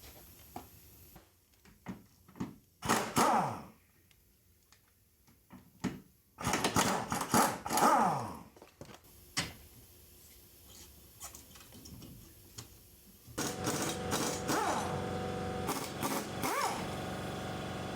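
A small handheld electric power tool, such as a cordless ratchet or drill, run in short bursts that wind down in pitch, then run more steadily near the end, while fasteners are worked on during engine-removal work.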